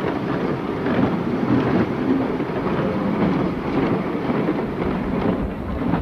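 Open passenger carriages of a 2 ft narrow-gauge train rolling past close by: a steady loud rumble of wheels on the rails with scattered clicks.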